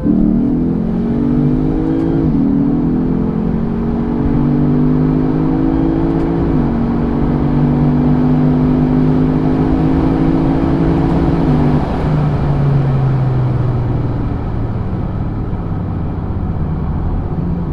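V8 car at full throttle, its engine note climbing through the gears with an upshift about two seconds in and another about six and a half seconds in. It lifts off about twelve seconds in, and the engine note falls away as it slows.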